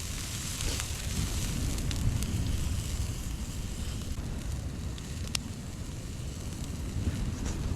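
Wood campfire burning with a few sharp isolated crackles over a low rumble of wind on the microphone.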